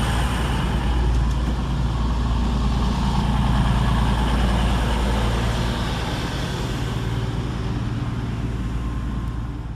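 Diesel multiple unit train's underfloor engines running steadily with a low drone.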